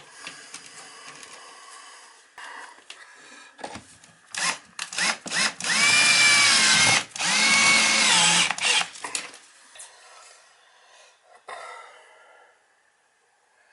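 Cordless power drill driving screws: a few short bursts, then two longer runs whose motor whine sags in pitch and picks up again as the screw bites, fastening a stainless flange repair plate.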